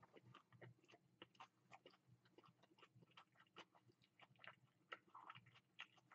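Faint chewing of a mouthful of crispy breaded chicken sandwich, a string of soft, irregular little crackles and clicks.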